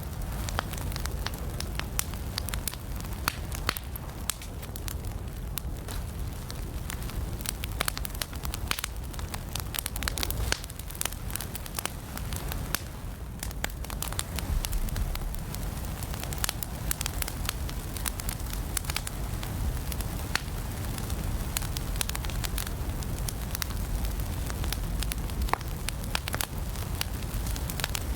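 Fireplace fire crackling steadily, with many sharp pops and snaps over a low, even rumble of the flames.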